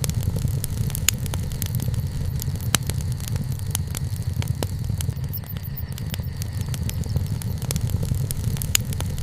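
Wood bonfire burning: irregular sharp crackles and pops over a steady low rumble.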